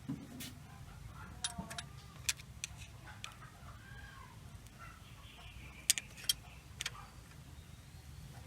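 Sharp metallic clicks and taps of hand tools working the rocker arm adjusting screw and locknut while the valve clearance of a Toyota 4K pushrod four-cylinder is set with a feeler gauge. About a dozen irregular clicks, the loudest pair about six seconds in, over a low steady hum, with faint chicken clucking in the background.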